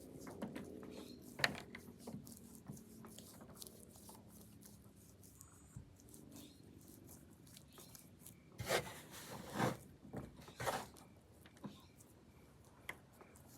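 Hands working a sticky baking soda and dish soap slime mixture, with small clicks and rubbing sounds and three louder short squishing, rubbing noises about nine to eleven seconds in.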